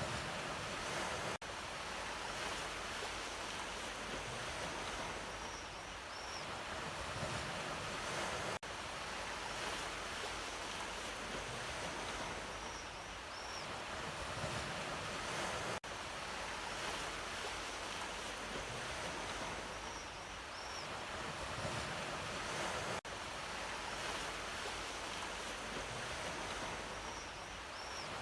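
Sea waves washing on the shore in a steady rush of surf. It is a short recording looped: a brief dropout falls about every seven seconds, and a faint high double chirp comes back on each repeat.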